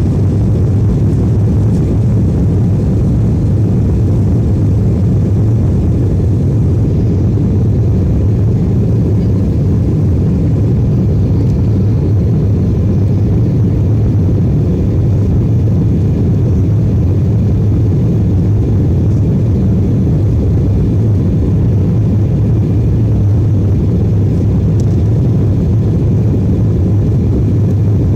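Airplane engines during takeoff, a loud, steady low rumble that holds even throughout.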